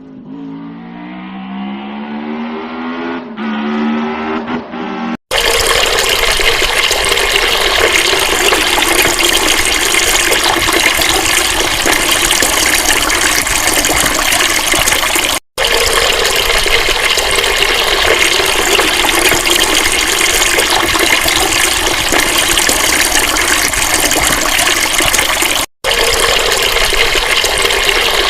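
A motor's pitch climbs steadily for about five seconds, then a loud, steady rush of flowing water takes over, broken by two abrupt cuts.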